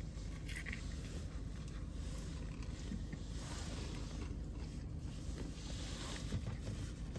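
A man biting into and chewing a loaded burger, with faint, scattered mouth sounds over a steady low rumble inside a car's cabin.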